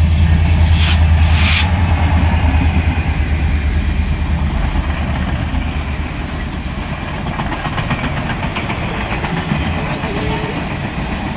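Holiday train passing close by a crossing: the diesel locomotive's deep engine rumble is loudest in the first few seconds, then eases as the train cars roll past over the rails.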